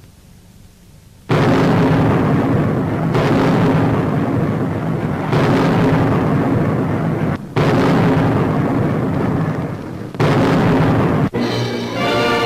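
Anti-aircraft gunfire and explosions on an old newsreel soundtrack: loud, noisy blasts starting about a second in, in several abrupt stretches of roughly two seconds each. Near the end a brass orchestral fanfare takes over.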